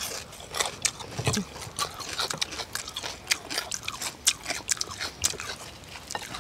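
Chewing and biting into crunchy deep-fried cá linh (Mekong mud carp), with many irregular crisp crunches as the fried fish breaks between the teeth.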